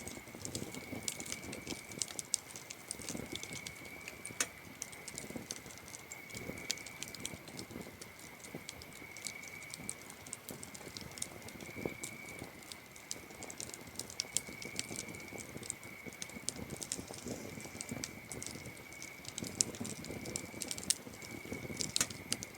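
Campfire wood crackling and popping in irregular sharp snaps, over a steady high cricket trill that swells and fades every couple of seconds.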